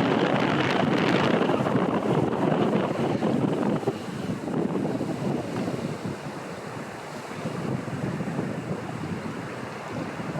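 Strong storm wind buffeting the microphone over a steady rush of water from the waterfall. The gust eases about four seconds in.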